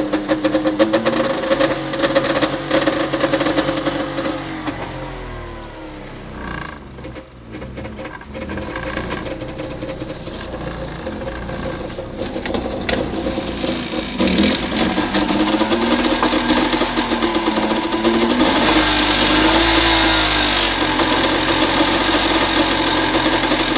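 Barkas van engine running and being revved: it settles to a quieter idle about five seconds in, then is revved up and down repeatedly from about halfway through and held at higher revs toward the end.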